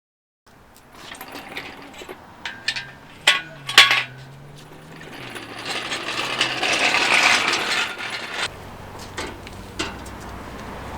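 Metal clinking and knocking of a hoist chain and engine being handled, a run of sharp clinks followed by a few seconds of louder rattling before it settles to a faint background.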